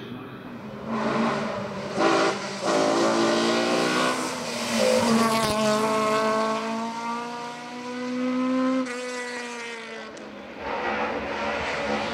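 Race car engine revving hard under acceleration, its pitch climbing through the gears with quick shifts about two seconds in. A long rising pull cuts off near nine seconds, and the engine picks up loudly again near the end.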